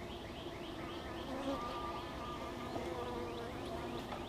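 A swarm of honeybees buzzing around an opened top-bar hive: many overlapping hums at slightly different pitches. The bees are stirred up by the hive being worked, with a quick rising chirp repeating in the background.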